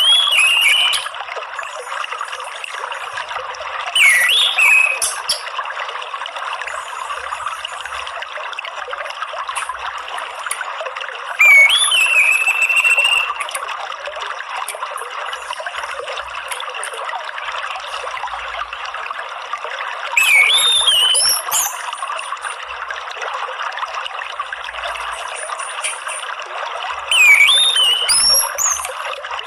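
Steady trickling water with an orange-headed thrush calling five times, several seconds apart. Each call is a quick rising-and-falling whistle followed by higher chirps.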